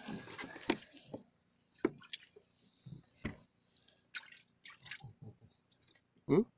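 Scattered knocks and clicks with water dripping, from fishing tackle being handled over water. A short squeak comes near the end.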